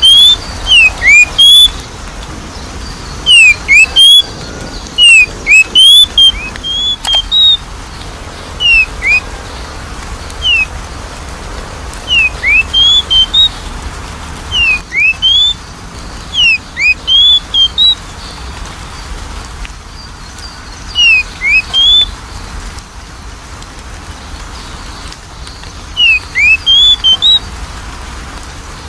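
Oriental magpie-robin (kacer) singing: loud, clear whistled notes that sweep up and down, given in short phrases of several notes every couple of seconds, over a steady low background hiss.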